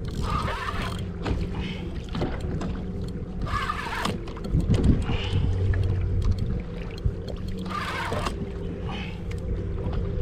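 Water sloshing against a kayak hull in swells that come back every few seconds, over a steady low hum.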